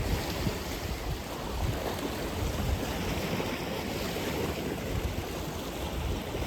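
Atlantic Ocean surf: a steady wash of breaking waves, with low gusty rumbling that sounds like wind on the microphone.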